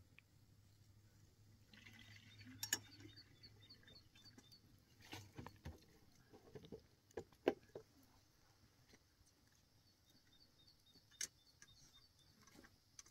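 Faint outdoor quiet in which a bird sings two runs of quick, high repeated notes, one early and one near the end, with a few scattered faint knocks and clicks in between.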